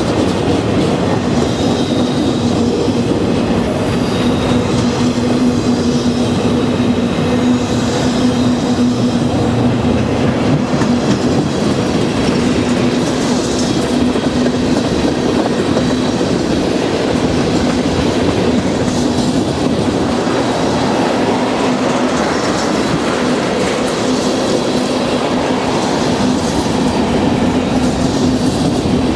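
Freight train cars rolling past at a steady pace, wheels clicking over rail joints, with a steady hum and a high wheel squeal in the first few seconds.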